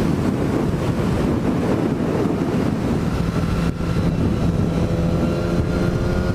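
Suzuki GSX-S1000's inline-four engine running under way, buried in heavy wind rush on the microphone. There is a brief dip in level about three and a half seconds in, after which the engine holds a steady note.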